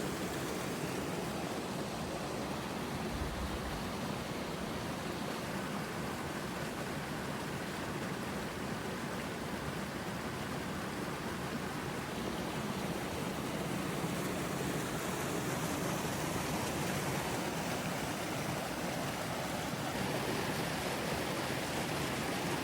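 Running water flowing steadily, a constant even rush.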